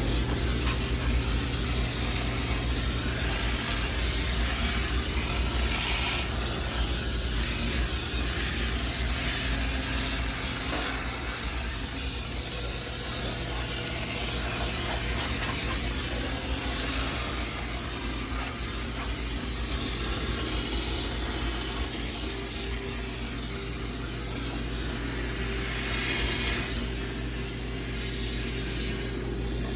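High-pressure steam cleaner spraying steam with a continuous hiss that swells and eases as it is worked, over a steady low hum.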